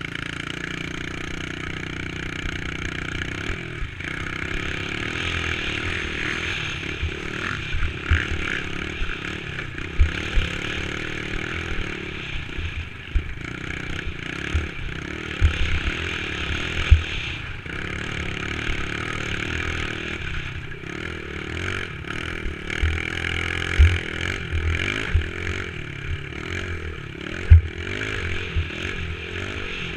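Dirt bike engine running under way, its pitch rising and falling as the throttle is worked, with a rattle and several sharp thumps, the loudest about halfway through and near the end.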